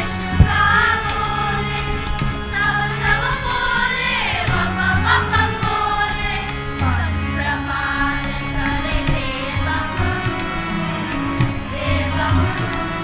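A group of voices singing a sliding, ornamented melody over a low, held instrumental accompaniment. A brief sharp knock sounds about half a second in.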